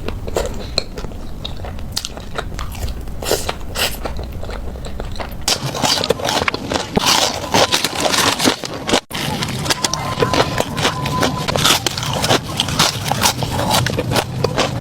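Close-miked eating of French fries: a steady run of crisp bites and crunchy chewing, with a momentary break a little past halfway.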